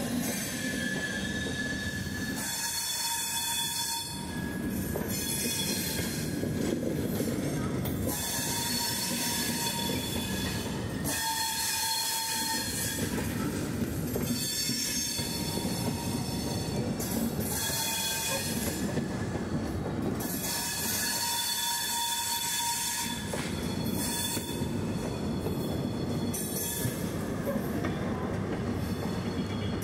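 Passenger coaches of an Indian Railways express, LHB-type with coil-spring bogies, rolling past: a continuous rumble and hiss of steel wheels on the rails that swells and eases as each bogie goes by. Brief high-pitched squeals from the running gear come and go throughout.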